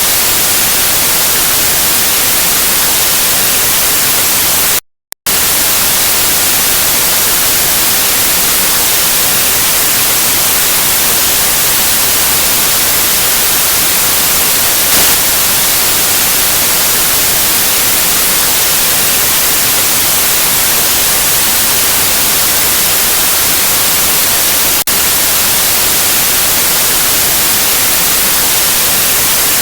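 Steady white noise: an even, loud hiss with no pitch or rhythm, strongest in the high frequencies. It drops out to silence for a split second about five seconds in.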